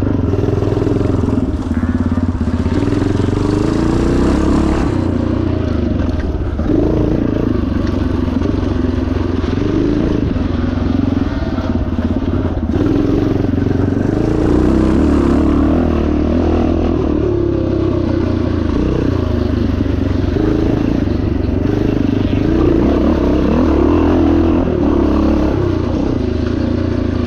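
1977 Yamaha TT500's single-cylinder four-stroke engine running under load, its pitch rising and falling again and again with throttle changes.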